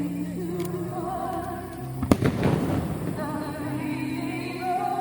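Fireworks bursting during a display set to music: a fainter crack early, then a loud, sharp bang about two seconds in with a rolling echo, over held notes of music played for the show.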